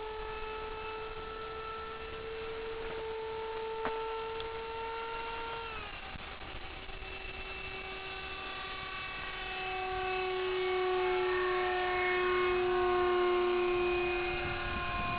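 Electric ducted fan of a radio-controlled Eurofighter model jet whining in flight: a steady high tone that drops in pitch about six seconds in and grows louder in the second half.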